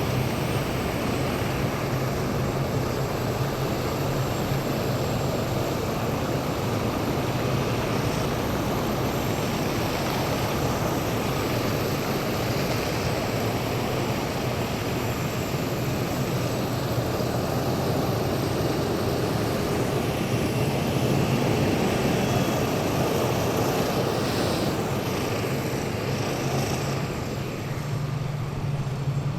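Column of heavy military vehicles driving past, their diesel engines running in a steady, deep, continuous rumble that swells slightly as the nearest vehicles pass, then eases near the end.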